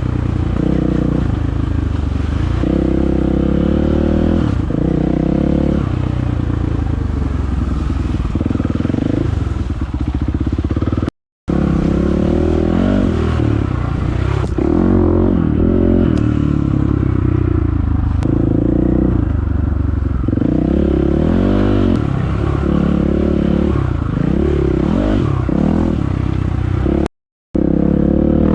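Dirt bike engine running under load on a trail ride, its revs rising and falling repeatedly as the rider works the throttle through the gears. The sound cuts out abruptly twice for a fraction of a second.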